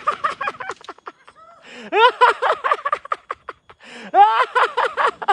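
A man laughing in bursts: quick breathy pulses at first, then two louder rising laughs about two and four seconds in.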